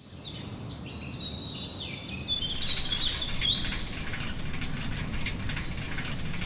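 Small birds chirping, with quick high chirps and twitters through the first three seconds or so, over a steady outdoor background noise. Light scattered ticks and clicks follow in the later part.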